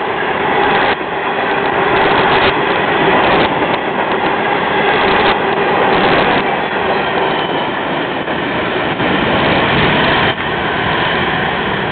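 Florida East Coast freight cars rolling past on the rails: a loud, steady rumble and rattle of wheels and cars.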